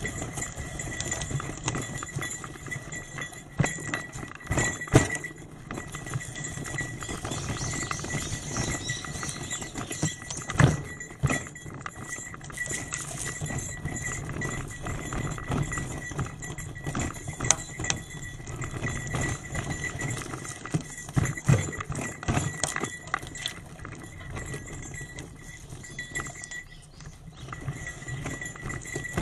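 Trek 8.3 DS bicycle rattling and clattering over a rough forest road, with frequent irregular knocks.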